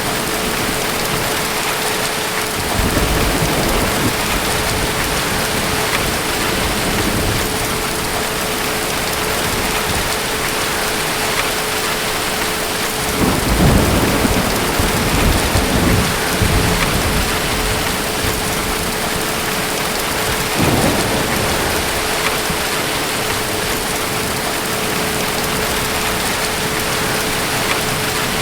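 Steady heavy rain with distant thunder rumbling three times: briefly about 3 s in, longest and loudest about 13 s in lasting several seconds, and briefly again about 21 s in.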